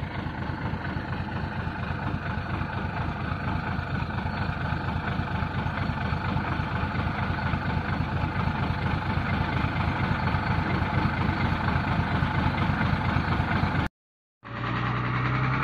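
Hino truck's six-cylinder diesel engine running with a steady pulsing note, slowly getting louder. The sound drops out for about half a second near the end, then the engine is heard again.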